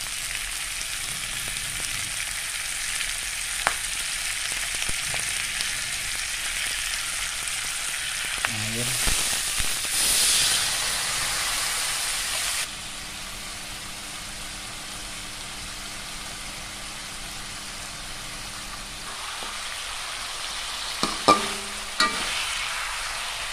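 Tofu, eel and eggplant stir-frying in chili sauce in a wok, sizzling steadily as a spatula stirs them. Partway through, water poured into the hot wok brings a louder hissing sizzle for a few seconds, after which the frying goes quieter. Near the end, the spatula knocks against the wok twice.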